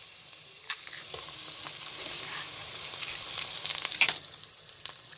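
Chopped onions and eggs sizzling in hot fat in a pot, a steady hiss. A few sharp clicks cut through it, the loudest about four seconds in, as more eggs are cracked into the pot.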